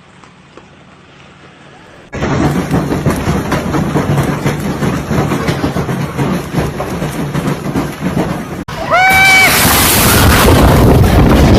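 Storm footage audio: about two seconds in, a loud, steady rush of heavy storm noise starts abruptly. After a sudden cut, a short high cry rings out and the rush returns even louder and hissier.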